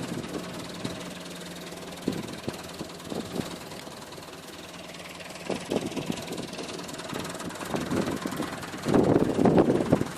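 Massey Ferguson 275 tractor's diesel engine running steadily, growing louder about nine seconds in.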